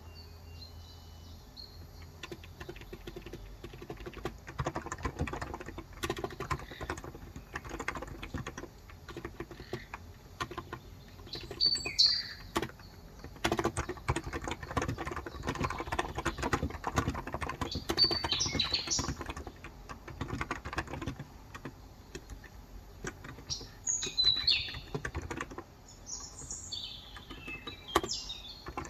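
Fast typing on a Cox Endeavor 35 g electro-capacitive tenkeyless keyboard, a dense run of soft key strokes that grows busier a few seconds in. Birds chirp several times in the background.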